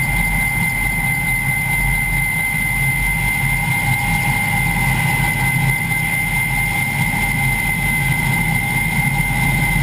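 Kamov Ka-32T helicopter's twin turboshaft engines and coaxial rotors running steadily, with a constant high whine over a low, fluttering drone.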